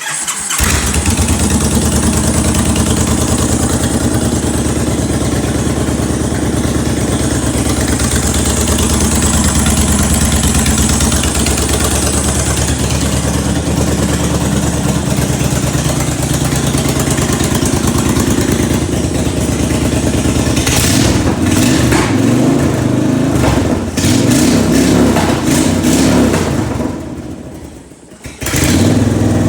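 Honda VT1300CX Fury's 1312 cc V-twin engine idling steadily. From about two-thirds of the way in it is revved several times. Near the end the sound drops off briefly and then picks up again.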